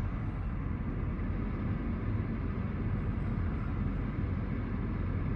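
Steady low rumble of idling semi-truck diesel engines, unchanging.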